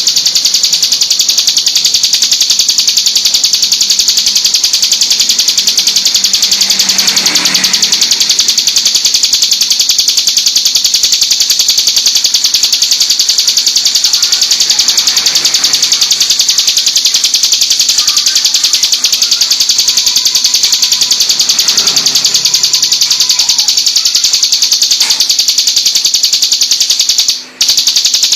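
Ciblek gunung, a prinia, singing a rapid, unbroken, high-pitched trill, very loud and fast-pulsing, with a brief break about 27 seconds in.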